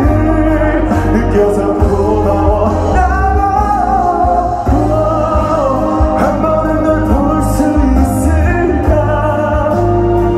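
Live pop ballad: a male singer holding long, bending notes over a band or backing track with a heavy, steady bass.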